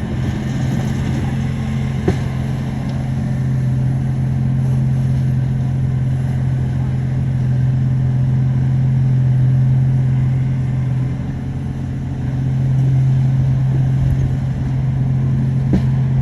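Diesel engine of heavy earthmoving machinery running steadily under load, easing briefly about eleven seconds in, with a couple of faint knocks.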